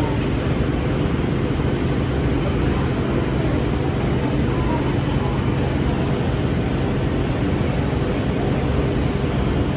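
Steady low hum of a stationary electric suburban train's onboard equipment, with several held low tones over a hiss of noise.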